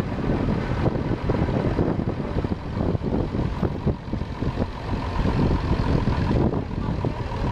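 Vintage tractor engine running, a steady low chugging made of many quick, uneven knocks.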